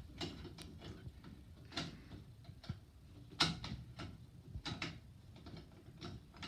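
Scattered clicks and knocks of small faucet parts being handled and pushed together, about half a dozen, the loudest about three and a half seconds in.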